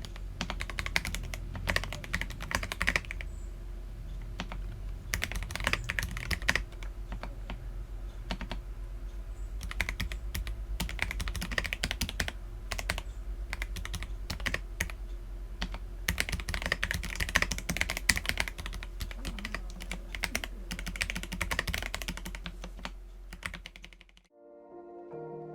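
Typing on an Akko PC75B mechanical keyboard with lubed Jelly Black linear switches and PBT Cherry-profile keycaps: fast runs of key clacks in bursts over a low steady hum. A second or so before the end the typing stops and soft music begins.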